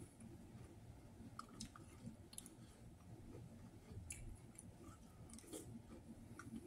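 Faint chewing of Cinnamon Toast Crunch cereal in milk, with scattered light clicks of a metal spoon against a small cup.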